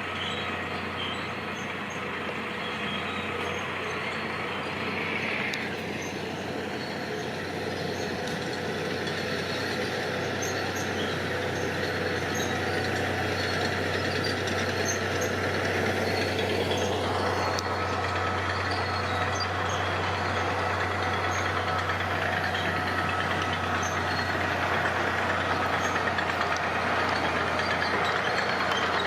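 Heavy diesel construction machinery running steadily, growing gradually louder.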